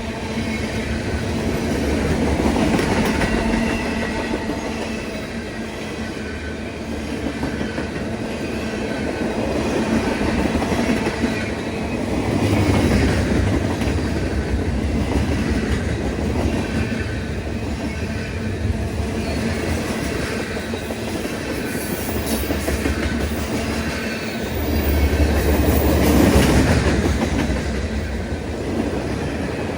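A train rolling past on the track, wheels clattering over rail joints over a steady rumble, with a faint high wheel squeal. The sound swells and eases several times.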